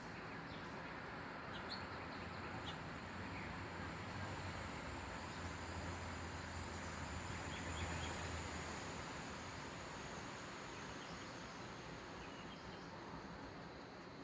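Outdoor ambience: a steady background hiss with scattered short, faint bird chirps. A low hum swells and fades in the middle.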